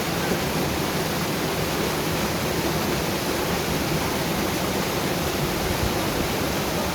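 Steady rush of a fast-flowing river swollen by monsoon flood water, an even roar with no breaks.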